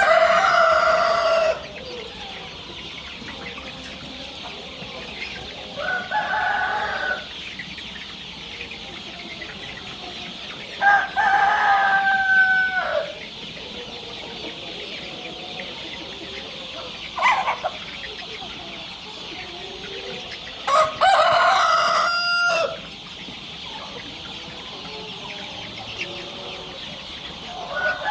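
Roosters crowing, about five crows spaced a few seconds apart, over a steady high-pitched hiss of background noise.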